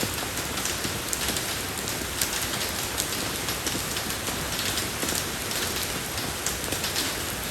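Steady rain falling on a road surface, an even hiss of rainfall with many individual drops pattering close by.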